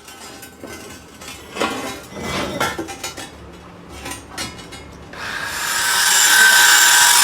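Irregular rubbing and scraping strokes of hand work on metal, then about five seconds in a power tool starts up, rising over a second into a loud, steady whining run.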